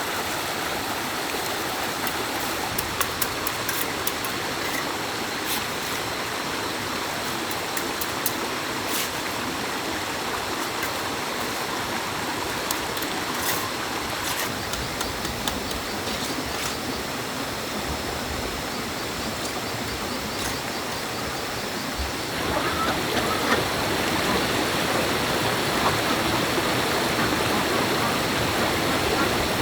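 Stream water rushing steadily, with scattered faint high clicks in the first part. About three-quarters of the way through the rushing becomes abruptly louder and fuller.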